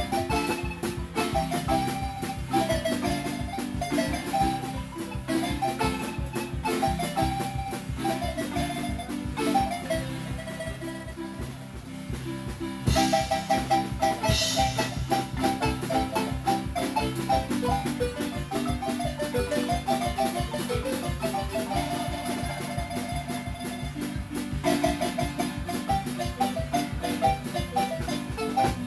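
Acoustic marimba played live: a quick melody of rolled, repeated mallet notes over a bass line and a steady dance beat, getting louder about 13 seconds in.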